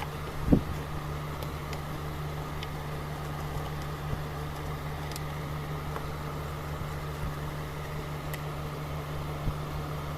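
A steady low machine hum, with one dull thump about half a second in and a few faint ticks.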